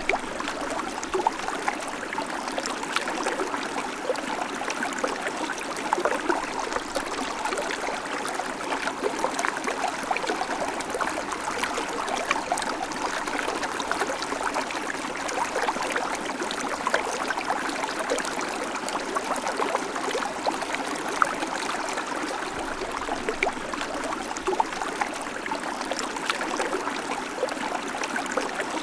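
Babbling creek: water running steadily over stones, with many small splashes and gurgles.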